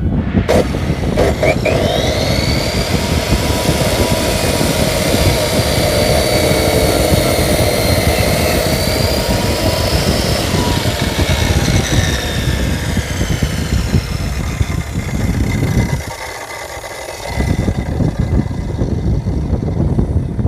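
The electric motor of a bench-mounted power saw spins up with a rising whine, then runs with a steady, loud whine over a dense noise. About sixteen seconds in, the low rumble briefly drops away, then returns.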